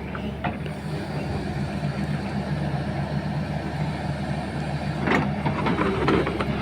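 Sany 210 excavator's diesel engine running steadily, with a few short knocks and a louder rush of clattering noise about five seconds in.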